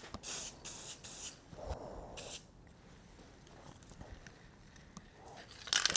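Krylon gloss white aerosol spray paint can spraying in short hissing bursts: about five in the first two and a half seconds, then one more near the end.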